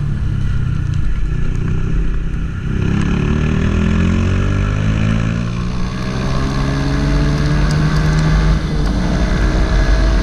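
Honda CG 160 Titan's single-cylinder four-stroke engine pulling under way, its pitch climbing steadily from about three seconds in, dipping briefly near the end, then climbing again.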